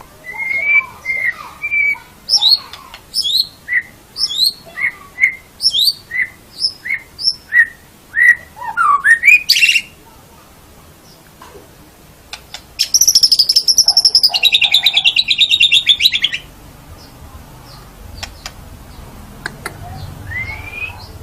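White-rumped shama (murai batu) singing: a rapid series of clear, gliding whistled notes, then a fast buzzing trill lasting about three seconds, and a single rising whistle near the end.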